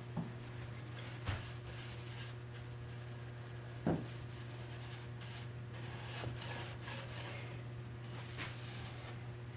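Soft rubbing strokes on the wooden machinist chest as finish is worked onto the outer edge, with a few light wooden knocks, the loudest about four seconds in.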